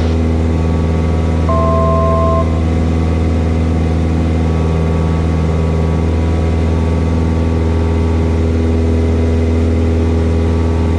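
Cessna 172S's four-cylinder Lycoming IO-360 engine and propeller droning steadily at climb power, heard inside the cabin. A short two-note electronic tone sounds about a second and a half in.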